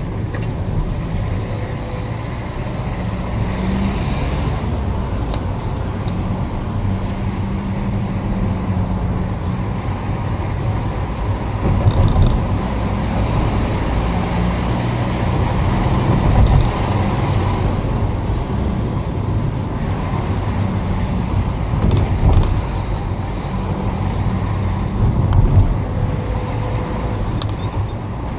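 Renault Grand Scénic diesel car driving: a steady low engine hum with road noise and a few short thumps.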